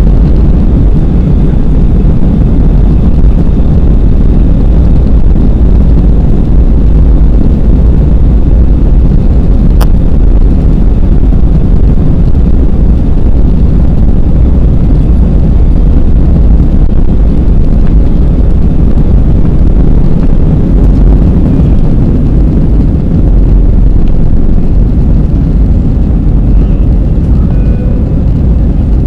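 Airbus A320 jet engines and rushing air during the climb after takeoff, heard from inside the passenger cabin as a loud, steady, low rumble.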